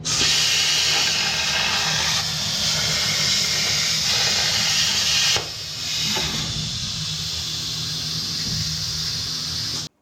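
CNC plasma torch cutting steel plate: a steady, loud hiss over a low hum, dipping briefly about halfway through.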